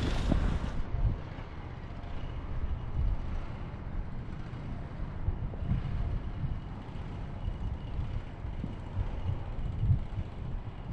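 Wind buffeting the microphone, a gusty low rumble that is loudest in the first second and then settles to an uneven, lower level.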